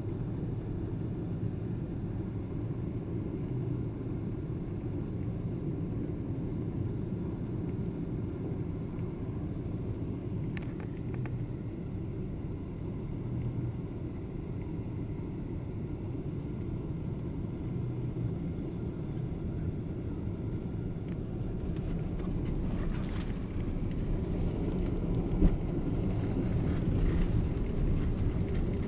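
Steady low rumble of engine and airflow noise inside the cabin of a Boeing 777-200ER airliner during landing. The rumble grows louder over the last several seconds, with one sharp thump about 25 seconds in.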